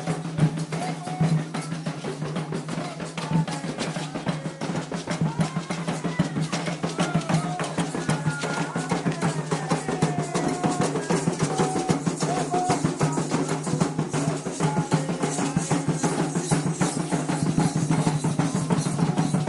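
Candomblé ceremonial drumming on atabaque hand drums, fast dense strokes without a break, with voices singing over it.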